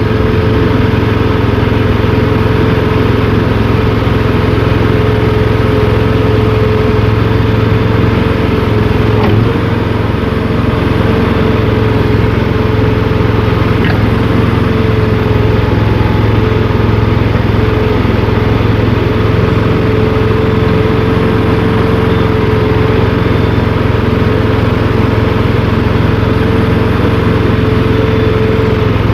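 Gasoline engine of a mini skid steer running steadily under hydraulic load as the bucket is raised, with a constant whine over the engine note. The level dips briefly about ten seconds in.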